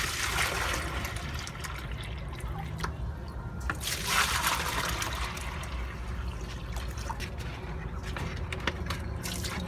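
Water being poured and sloshing in a container, in two surges: one at the start and a stronger one about four seconds in, under a steady low rumble.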